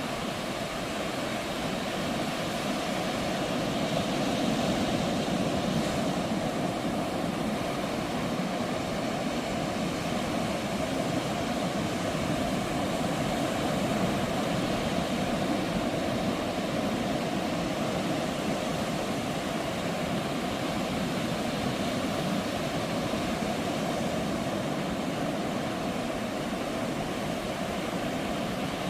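Ocean surf breaking on a beach: a steady wash of wave noise that swells slightly a few seconds in and again around the middle.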